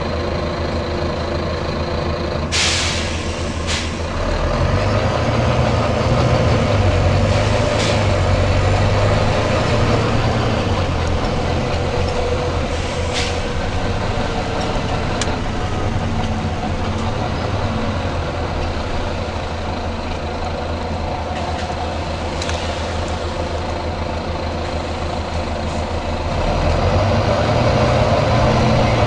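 Volvo B9TL bus's six-cylinder diesel engine running at idle, with sharp hisses of released compressed air from its air system: a longer one about three seconds in, then several short ones spread apart. The engine gets louder around five seconds in and again near the end.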